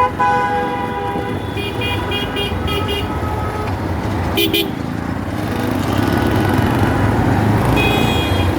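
Road traffic noise, a steady engine and road rumble, with vehicle horns honking: a horn just after the start, a run of short beeps about two to three seconds in, and another horn near the end.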